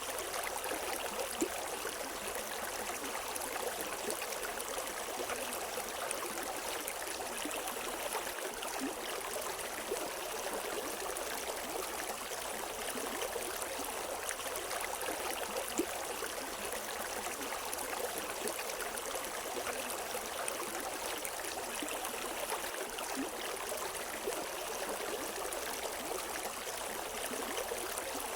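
River water flowing over rocks: a steady rushing and splashing with small gurgles and drips now and then.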